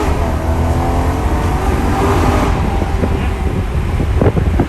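BMW E90 M3's V8 with a custom exhaust, heard from inside the cabin, pulling under throttle for about two and a half seconds, then easing off into a lower rumble with road noise.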